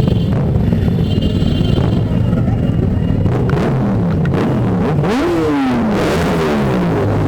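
Motorcycle engines running steadily. One is revved up and drops back about five seconds in, its pitch rising then falling.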